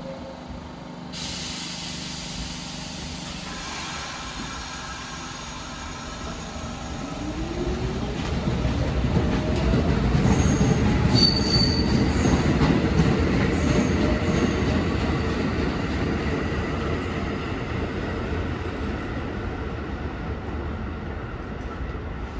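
R46 New York City subway train passing through the station, its steel wheels squealing on the rails. The rumble swells to a peak in the middle with a rising motor whine, then slowly fades.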